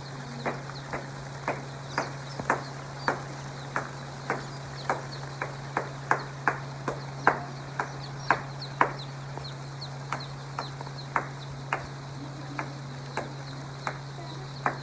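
Chickens clucking in short, sharp sounds about twice a second, over a steady low hum, with faint high chirps here and there.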